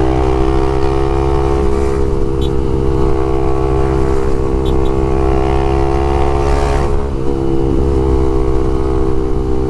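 Honda CBX 250 Twister's single-cylinder engine breathing through a LeoVince aftermarket exhaust, running at steady high revs while cruising, with a brief dip about seven seconds in.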